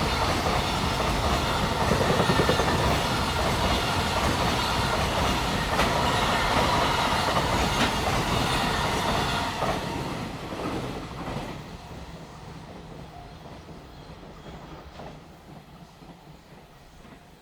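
Container freight train passing close by on the main line, its wagons' wheels clacking over the rail joints. About ten seconds in, the sound begins to fade steadily as the train moves away.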